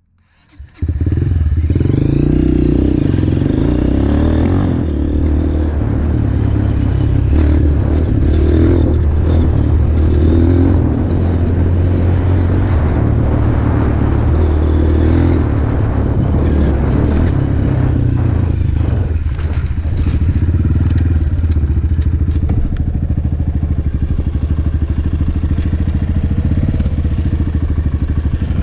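Enduro motorcycle engine running loud and steady, its pitch rising and falling as it is revved.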